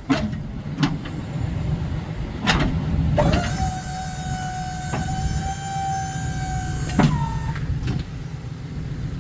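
A snowplow's hydraulic pump whining steadily for about four seconds as the plow is run through its motions, with sharp clunks as it starts and stops, over the truck's running engine.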